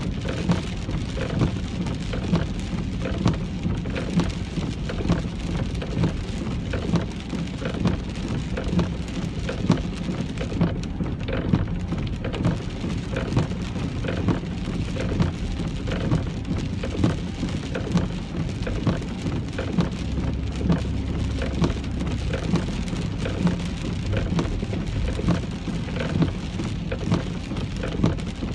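Rain falling on a moving car, over a steady low road and engine rumble, with short regular peaks about once a second.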